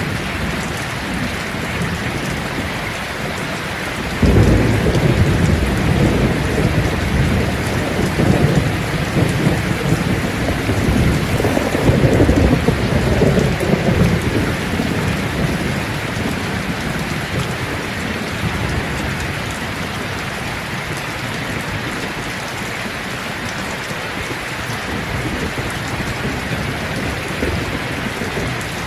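Steady rain falling on leaves, with a low roll of thunder that breaks in suddenly about four seconds in, rumbles for about ten seconds and fades away.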